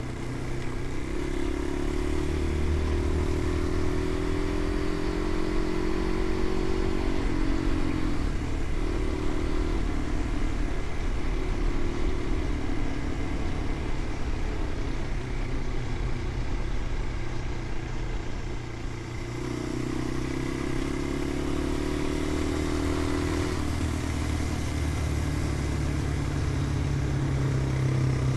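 Motorcycle engine running under way, its note climbing slowly and dropping back several times, most clearly in the first few seconds and again past the middle.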